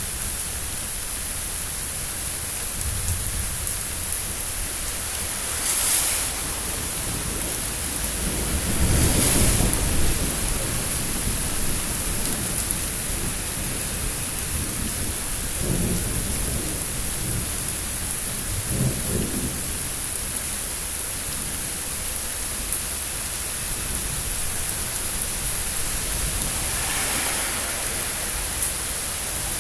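Steady rain hissing through a thunderstorm, with several short rolls of thunder rumbling low and swelling and fading again, the strongest about nine seconds in.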